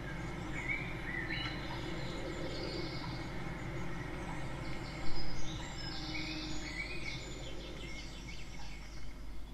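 Small birds chirping and calling in short scattered notes over a steady low background rumble, with one brief loud noise about five seconds in.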